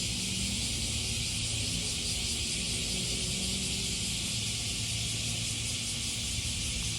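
Chorus of cicadas buzzing in a steady, unbroken high hiss, with a low hum underneath.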